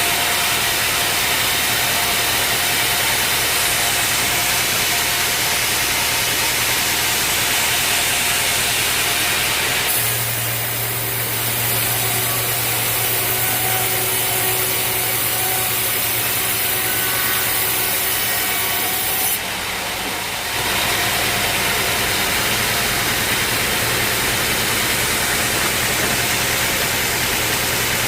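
A sawmill cutting through a teak log, its engine running steadily under the sawing noise. The sound changes about ten seconds in, dips briefly around twenty seconds, then carries on as before.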